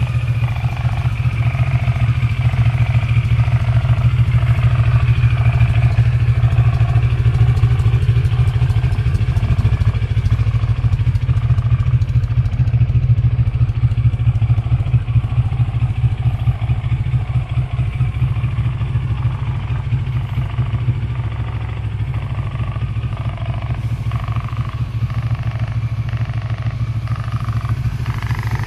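CFMOTO 650TR-G's 650cc twin-cylinder engine running steadily, with a fainter two-note tone alternating about twice a second above it.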